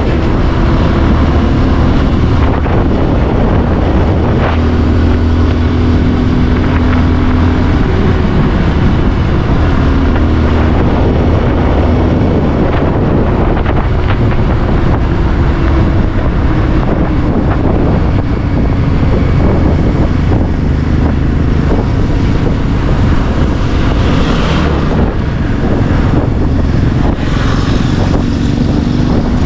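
Bajaj Pulsar 150's single-cylinder engine running at road speed, heard from the rider's seat under heavy wind noise on the microphone. The engine eases off in the second half as the bike slows.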